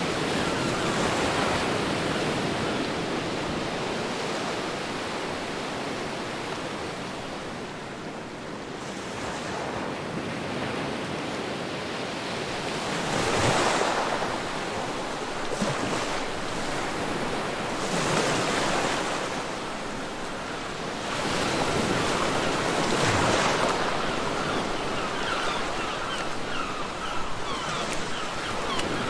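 Ocean surf on a beach: a continuous wash of waves, with several louder breakers surging and falling away in the second half.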